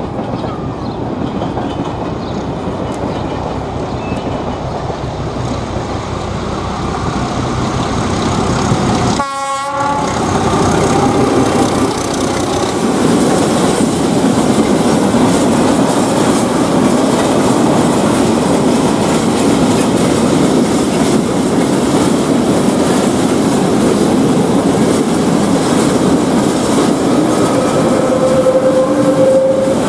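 A train passing close by on the main line, a steady rail rumble with wheels clattering over rail joints, growing louder. The sound breaks off abruptly about nine seconds in and resumes louder.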